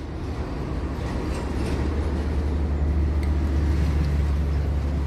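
Low, steady machinery hum that swells slightly, with a few faint light clicks.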